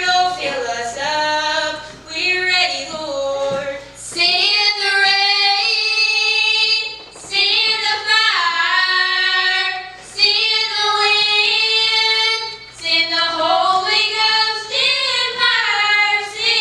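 A young female voice singing a slow church song in long held phrases, sliding between notes, with short breaks every few seconds.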